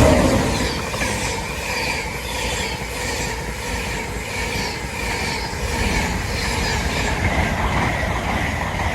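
Intercity 225 express passing at speed: the loudest moment and a falling pitch come right at the start as the front goes by, then a steady rush of coaches with rhythmic wheel clicks and a thin high ring from the rails.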